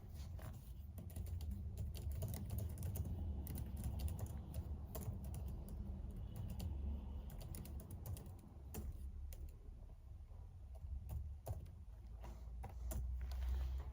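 Typing on a computer keyboard: irregular runs of key clicks with a short pause partway through, over a low steady hum.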